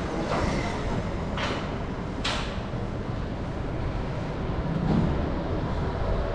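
Steady low rumble of city traffic, with two short hisses about a second and a half and two seconds in.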